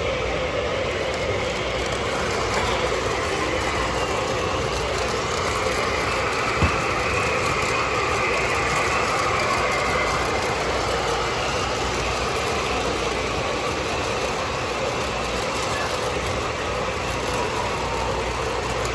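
Model trains running on a show layout: a steady whir and rumble of motors and wheels on track over the hum of a busy hall, with one sharp click about six and a half seconds in.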